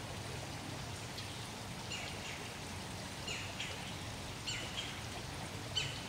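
Woodland background: a steady low rushing noise with a small bird calling over it. The bird's short, falling high notes come in pairs every second or so.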